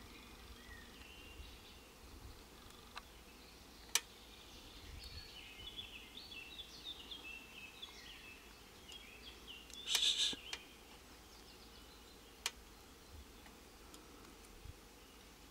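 Small birds chirping: a run of short, high notes over faint background noise, with a few sharp clicks and a louder brief burst of noise about ten seconds in.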